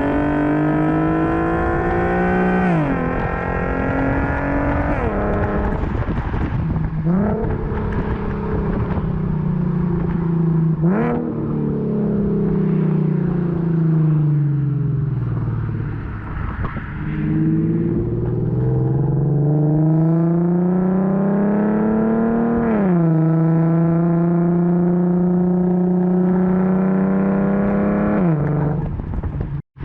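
Infiniti Q50 V6 with a muffler-deleted axle-back exhaust under way: the exhaust note climbs with the revs and drops back at a couple of gear shifts, eases down and pulls up again, shifts once more and settles into a steady cruise, then cuts off suddenly near the end.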